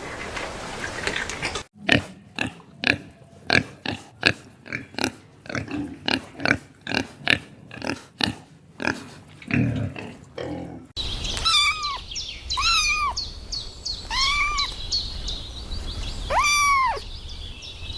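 A quick run of short animal grunts, two or three a second, then a kitten meowing over and over, each meow rising and falling in pitch.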